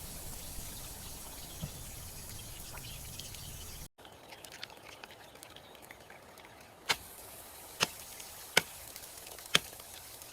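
Steady rain, then after a sudden break, lighter rain with four sharp knocks roughly a second apart.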